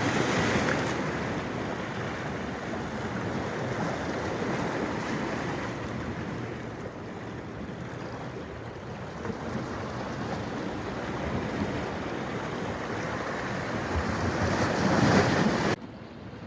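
Steady rushing of flowing water that cuts off abruptly near the end.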